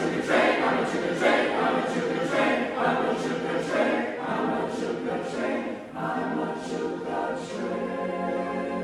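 Chamber choir singing in rhythmic pulses, about one every 0.7 s, with crisp consonant hits. About six seconds in, it settles onto a sustained held chord.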